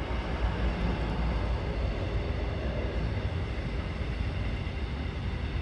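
Freight train rolling past on the nearby track: a steady low rumble with a broad hiss of wheels on rail.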